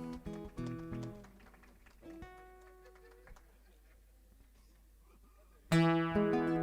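Acoustic guitar: a few soft single plucked notes, a pause, then loud strummed chords start near the end as the song begins.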